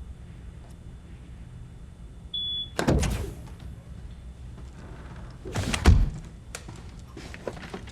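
A short electronic beep, then a heavy door thunk, and a second, louder thunk about three seconds later, over a steady low hum.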